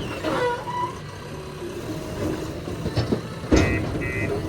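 Heavy machinery engine running steadily, with two sharp knocks near the end, the second the loudest.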